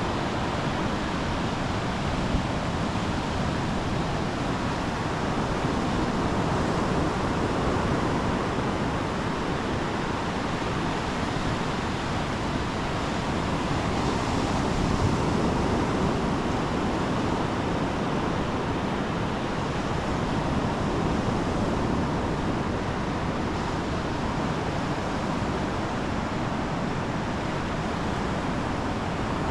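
Ocean surf washing steadily onto the beach, with some wind, swelling a little about halfway through.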